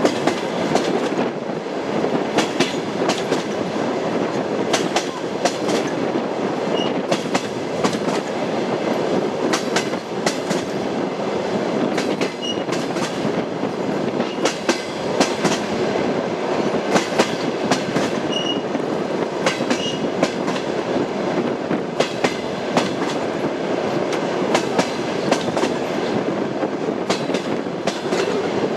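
Train running on the rails: a steady rumble, with the wheels clicking over rail joints in irregular clusters of sharp knocks.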